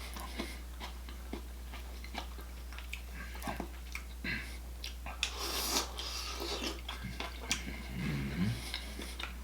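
Close-up chewing and mouth sounds of a person eating mussels in garlic butter sauce: scattered wet smacks and clicks, busiest about five to six seconds in.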